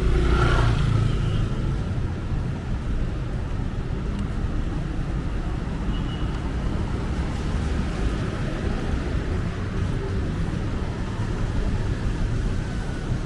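Street traffic noise: a steady rumble of passing vehicles, with one vehicle sounding more prominent in the first second.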